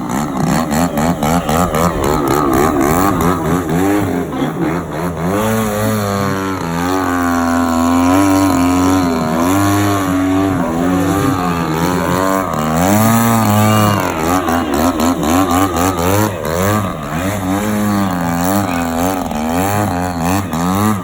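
DLE 60 two-stroke petrol engine of a large 3D aerobatic radio-control plane running hard in flight, its pitch and loudness rising and falling again and again as the throttle is worked through the manoeuvres. It pulses rapidly in the first few seconds and again near the end.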